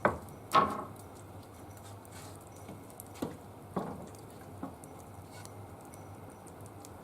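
Faint crackling of a small wood fire, with five louder short sharp pops or knocks, the first two within the first second and three more a few seconds later.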